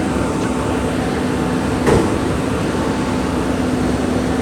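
A steady, loud rumbling noise with a low hum running through it, broken once by a short knock about two seconds in.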